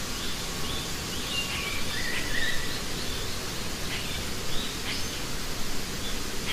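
Open-air wildlife ambience: a steady background hiss with scattered short bird chirps.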